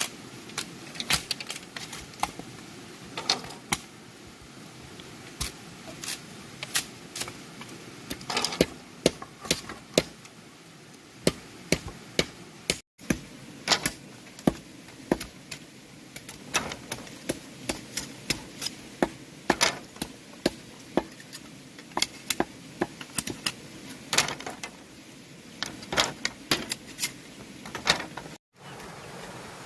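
Irregular sharp knocks and taps from hand tools working bamboo, several a second, with louder strokes here and there. It drops out briefly twice.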